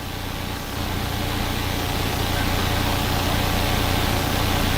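Steady drone of a helicopter's engine and rotor heard through the cabin microphone, with a strong low hum. It grows a little louder about a second in.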